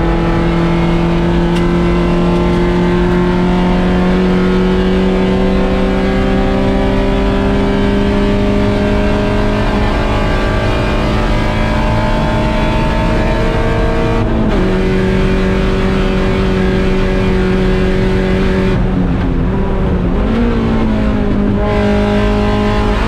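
A 1.6-litre Mazda Miata's inline-four race engine pulling hard, its revs climbing slowly and steadily, then dropping sharply about fourteen seconds in with an upshift. Near the end the revs fall away, rise briefly, and settle at a steady pitch.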